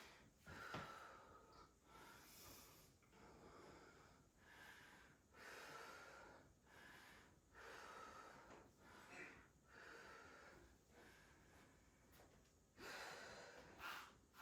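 A woman's heavy breathing from exertion during push-ups: faint, short breaths about once a second, louder near the end.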